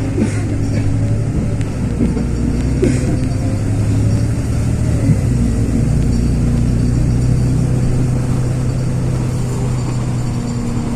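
LiAZ 6213.22-01 articulated diesel bus driving along, heard from inside the cabin: a steady engine drone with a faint whine above it. A couple of short knocks or rattles sound near the start and about three seconds in.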